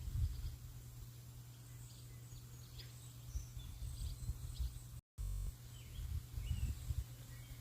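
Small birds chirping and calling in short high notes, over an uneven low rumble. The sound cuts out briefly about five seconds in.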